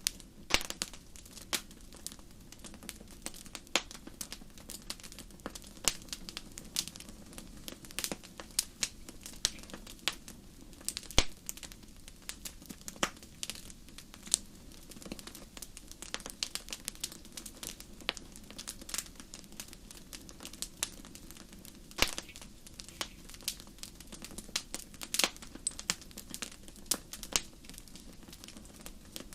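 Wood fire burning in a fireplace: a steady low rush of flame under constant irregular crackling and snapping, with a few sharper pops standing out, one about eleven seconds in and one about twenty-two seconds in.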